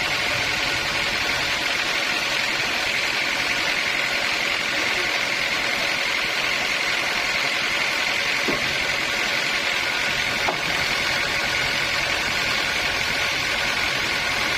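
Sawmill machinery running steadily: a constant mechanical drone with a steady high whine over it, unchanging throughout.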